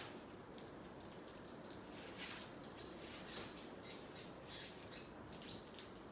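A small bird chirping faintly: a quick run of seven or eight short, high notes starting about three seconds in, over a low steady background hiss. A brief soft rustle comes about two seconds in.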